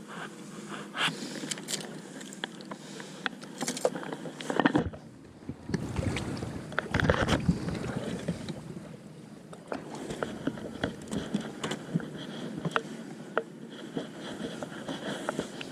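Sounds aboard a bass boat on the water: a steady low hum with scattered short clicks and knocks. A louder rushing noise comes about five seconds in and again about seven seconds in.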